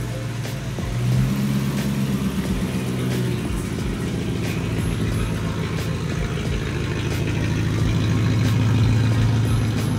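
BMW E21 with a swapped-in 4.4-litre M62 B44 V8 running under way. It pulls harder for a couple of seconds about a second in, then runs on more steadily.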